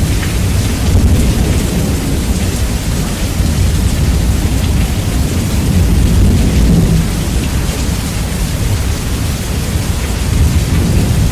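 Heavy rain with rumbling thunder, bass-boosted and distorted, so that a loud, steady low rumble lies under the hiss of the rain.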